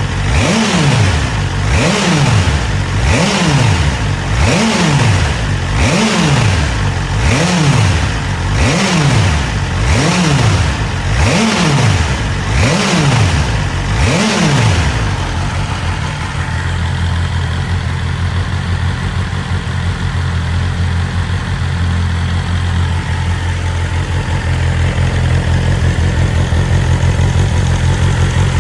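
2023 BMW S1000RR's inline-four engine blipped repeatedly, about a dozen quick revs roughly one a second, each rising sharply and dropping back. About halfway through it settles to a steady idle.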